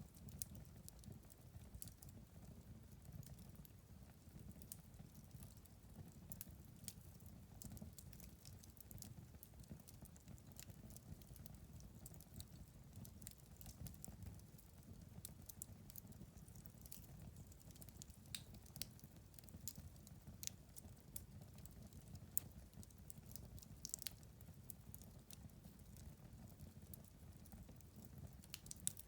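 Wood fire burning in a fireplace, faintly: a soft low rumble of flames with irregular small crackles and pops, a few sharper pops standing out.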